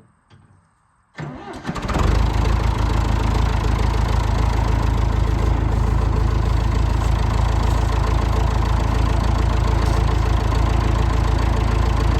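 John Deere 450B crawler bulldozer's diesel engine cranking for about a second, then catching about two seconds in and settling into a steady idle. It starts easily.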